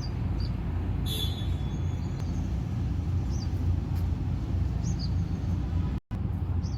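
Outdoor ambience: a steady low rumble with faint, scattered high bird chirps over it, and a brief sharper call about a second in. The sound cuts out for an instant about six seconds in.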